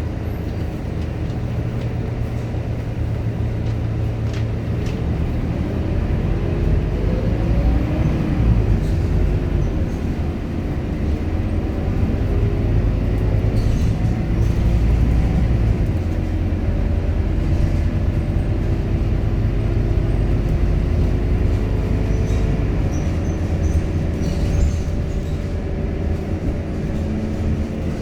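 Scania K230UB city bus's nine-litre five-cylinder diesel engine running under way, a steady low drone whose pitch rises and drops back several times as the bus pulls away and moves up through its automatic gears.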